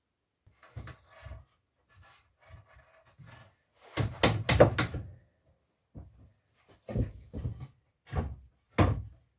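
Wooden sawhorse boards being handled and set in place, giving irregular wooden knocks and thuds. The loudest is a quick run of knocks about four seconds in, and single knocks follow near the end.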